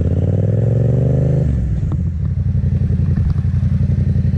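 Yamaha sportbike engine revving up under acceleration, its pitch climbing for about a second and a half. The throttle then snaps shut and the engine falls to a steady low idle, as in accelerating and then braking hard to a quick stop.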